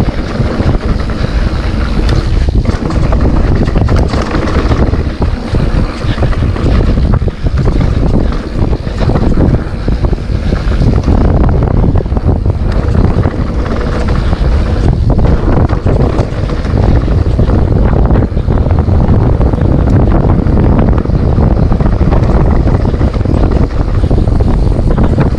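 Wind rushing over the microphone of a camera on a mountain bike riding a dirt trail, mixed with tyre rumble and many short knocks and rattles from the bike over rough ground.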